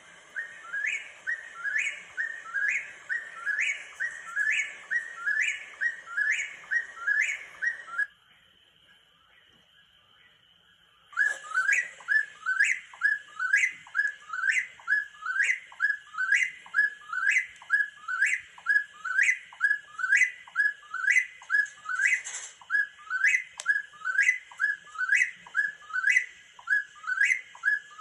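Recorded eastern whip-poor-will song played back: the whistled 'whip-poor-will' call repeated rapidly, about one and a third calls a second. It cuts off suddenly about eight seconds in and starts again about three seconds later.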